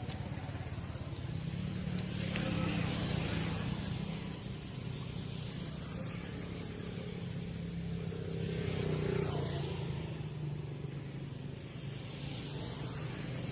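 Motor vehicle engine running, swelling in loudness twice, about two seconds in and again about nine seconds in, as vehicles pass.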